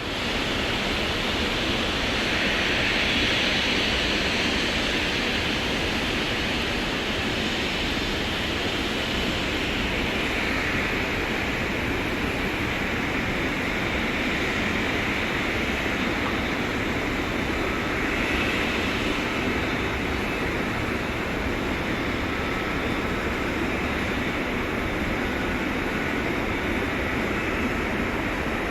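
Boeing 777-300ER's twin GE90 jet engines at low taxi thrust: a steady rushing hiss with a slight swell a few seconds in.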